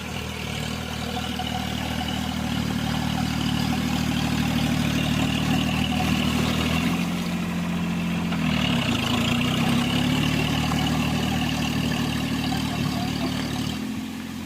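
John Deere mini tractor engine running steadily while working a rotavator. About seven seconds in the engine note drops, then climbs back up about a second and a half later.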